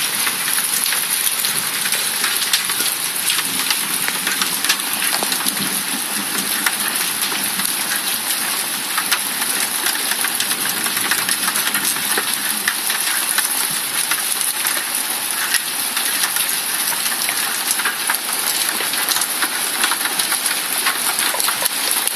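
Heavy rain pouring steadily during a thunderstorm, a dense patter of countless drops striking the ground.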